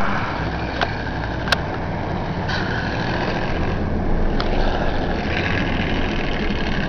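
Ford F-100 pickup's 351M V8 engine running steadily at idle. Two sharp clicks come about one and one and a half seconds in.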